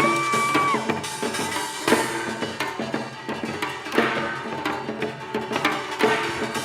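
Korean pungmul ensemble playing: drums struck under ringing gongs, with a strong accented stroke about every two seconds. A short held high note sounds at the very start.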